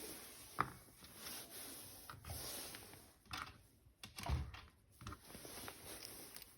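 Hands handling plastic toys and packaging: scattered clicks and rubbing, a sharp click about half a second in and a heavier thump a little after four seconds.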